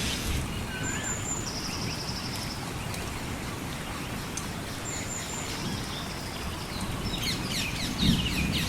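Steady rain-and-water hiss with birds singing over it: short high trilled phrases about a second in and again about five seconds in, then rapid chirping from about seven seconds in. A brief low rumble just after eight seconds.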